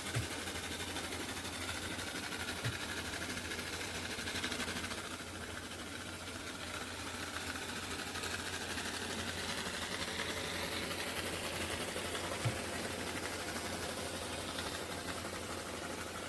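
Narwal Freo Z10 robot vacuum and mop running: a steady motor hum with a high whine that drifts slowly in pitch, and a few faint clicks.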